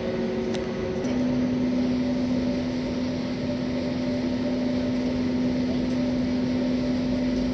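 Steady cabin drone of an Airbus A320 on the ground before takeoff, with a held humming tone from the engines and air-conditioning. About a second in, the tone steps slightly higher and the drone gets a little louder.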